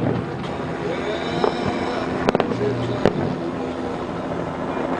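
Fireworks shells bursting at a distance, heard as a few sharp bangs, two of them less than a second apart after the middle, over a steady background noise.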